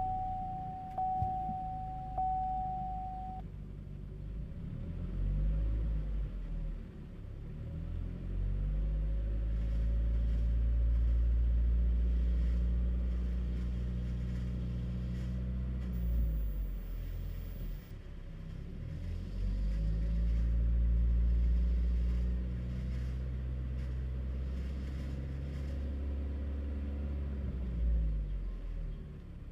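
Chevrolet Cruze engine running and being revved twice: each time the pitch rises, holds for several seconds, then falls back to idle. An electronic dashboard chime sounds for the first few seconds.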